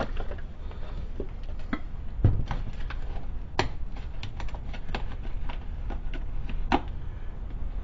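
Scattered light clicks and taps of an oil jug and a new oil filter being handled while the filter is pre-filled with oil, irregular and busiest in the second half, over a low steady hum.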